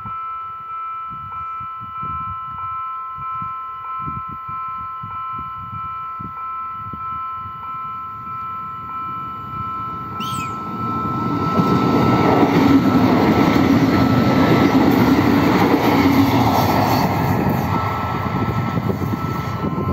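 Level-crossing warning bell ringing over a steady electronic tone, with about one and a half strikes a second. From about eleven seconds in, a Renfe electric multiple-unit train passes, its wheel-and-rail rumble growing loud and holding to the end; a short high falling whistle sounds just before it.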